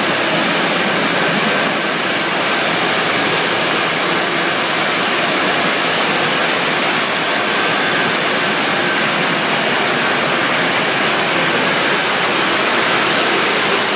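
Steady, loud rushing noise of steel drum production-line machinery, with faint thin steady tones running through it.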